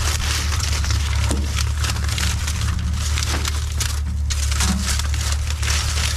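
Plastic trash bags crinkling and tearing as they are pulled at and rummaged through, a dense run of crackles and rustles over a steady low rumble.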